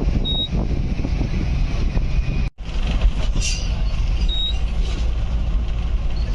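Safari vehicle's engine running steadily with a low rumble, cut by a brief gap of silence about two and a half seconds in. Two short high chirps are heard over it, one early and one about four seconds in.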